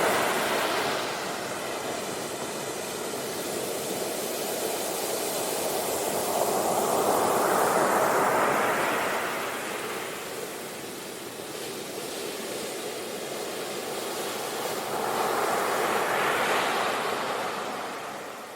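Sea waves washing ashore: a steady rushing surf that swells twice, once about seven seconds in and again about fifteen seconds in.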